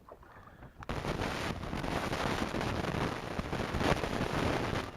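Strong wind buffeting the microphone: a loud rushing noise that starts abruptly about a second in.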